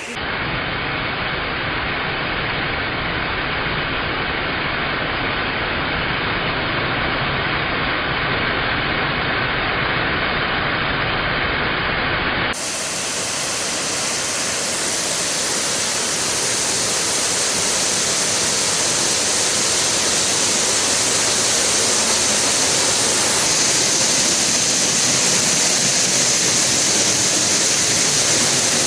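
Dry Falls waterfall on the Cullasaja River pouring, a loud, steady rush of falling water. About twelve seconds in the sound changes abruptly to a brighter, hissier rush.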